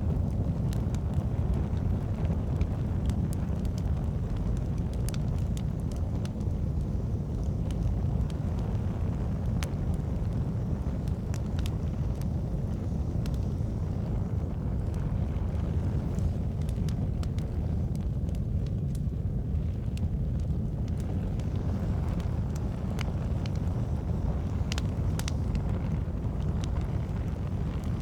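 Campfire crackling, with irregular sharp pops and snaps of burning logs over a steady low rumble.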